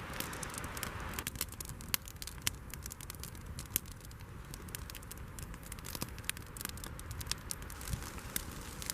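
Campfire crackling, with irregular sharp pops over a low steady rumble.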